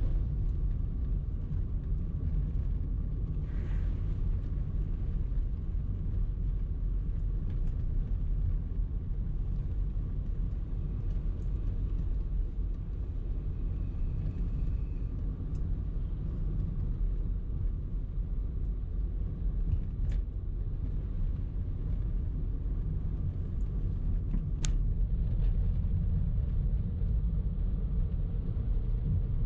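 A car driving in traffic: a steady low rumble of engine and road noise, with two short ticks late on.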